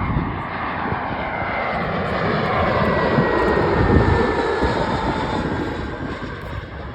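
Airliner's engines as the plane passes close by: a loud rush swelling to a peak about four seconds in, then fading, with a thin whine that slides steadily down in pitch as it goes by.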